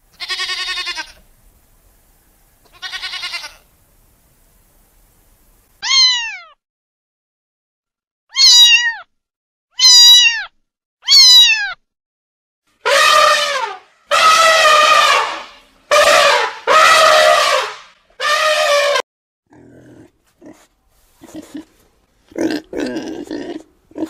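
Sheep bleating twice in a quavering voice, then a domestic cat meowing over and over: first short falling meows, then five longer, louder ones. A pig grunts in short, low bursts near the end.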